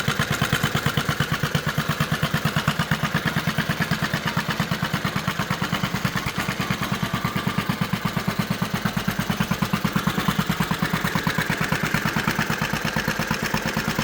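1970 Cat Duster MX mini bike's 4 hp Tecumseh single-cylinder engine idling steadily, a rapid even putter with no revving.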